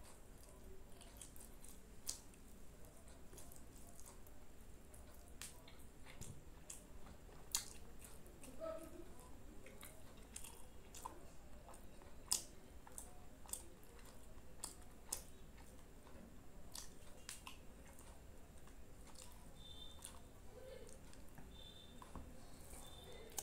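A person chewing rice and curry eaten by hand, close to the microphone, with frequent short wet clicks and smacks.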